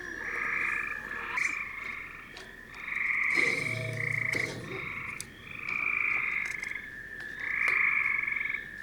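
A chorus of frogs calling, with overlapping pulsed trills each lasting about half a second to a second, one after another. A brief low sound joins them about three and a half seconds in.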